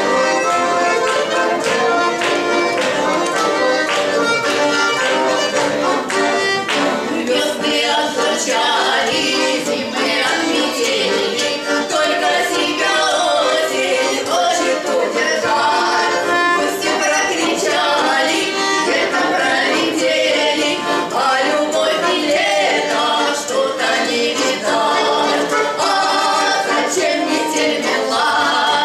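Two bayans (Russian button accordions) playing a folk-style song, with two women singing in duet.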